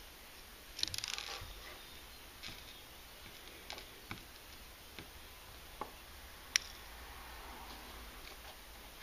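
Small gold fragments being handled and set down to be weighed: a short run of light clicks and rattling about a second in, scattered faint ticks, and one sharp click about six and a half seconds in.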